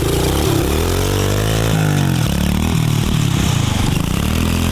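Kawasaki KLX 110 pit bike on a Timbersled snow track, its small single-cylinder four-stroke engine revving up and falling back several times as it is ridden, then climbing again near the end.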